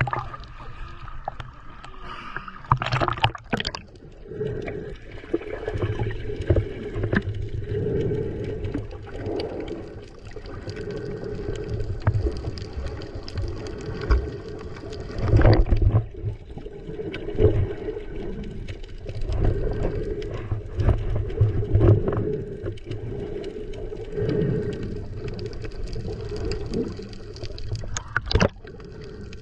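Muffled sloshing and gurgling of sea water around a snorkeler's camera in or at the water surface, with a few sharp knocks or splashes.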